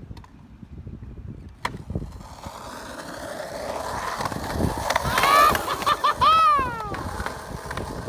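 Skateboard wheels rolling on a paved trail, the rolling noise building to its loudest a few seconds in, with a sharp click near the start. Near the end come a few short high calls and then one longer high call falling in pitch.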